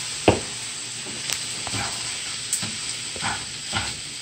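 Fried rice with shrimp sizzling in a frying pan on a gas stove while a spatula stirs it. Short scrapes and knocks of the spatula against the pan come through the sizzle, the sharpest about a third of a second in.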